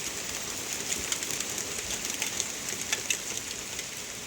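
Heavy rain pouring down: a steady hiss with the patter of many individual drops hitting surfaces.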